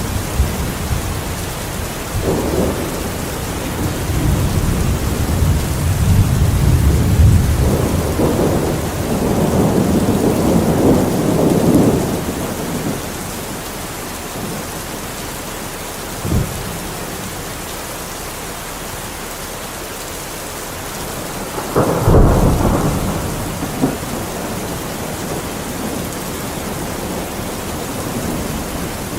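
Steady rain with thunder: a long low rumble through the first twelve seconds or so, a short knock about sixteen seconds in, then a sharp clap with rumble about two-thirds of the way through.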